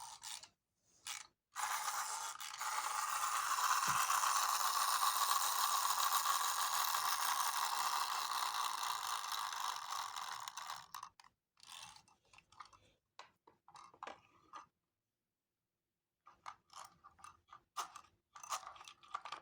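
Toy washing machine's small motor spinning the drum, running steadily for about nine seconds and then stopping, followed by scattered clicks and knocks.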